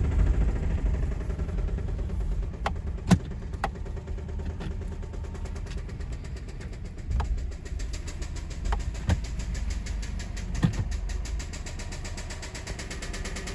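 2005 Subaru Outback XT's turbocharged flat-four engine running with a fast, steady rod knock from a spun rod bearing, as the car is moved. A few sharper, louder knocks stand out over it.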